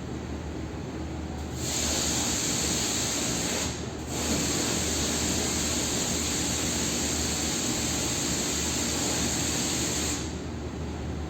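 A strong, even hiss that switches on about a second and a half in, breaks off briefly near four seconds, then runs on until it stops sharply near ten seconds, over a low steady hum.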